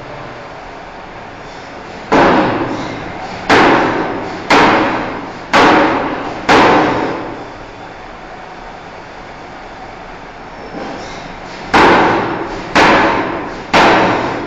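Loud hammer blows on a steel bar being forged, about one a second: five in a row, a pause of several seconds, then three more near the end, each ringing on briefly, over a steady shop noise.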